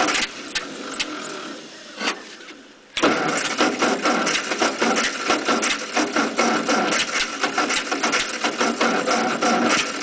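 A 1948 Ford 8N tractor's four-cylinder engine is cranked by its 6-volt starter. After a short pause, the starter starts turning it over again about three seconds in, in a fast, even rhythm, without the engine catching. This is a cold start on a flood-prone engine, with the 6-volt battery running down.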